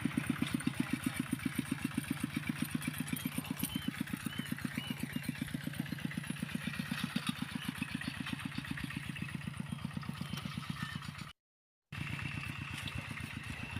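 A small engine running steadily at a low, even beat of about seven or eight pulses a second. It drops out for a moment near the end and comes back.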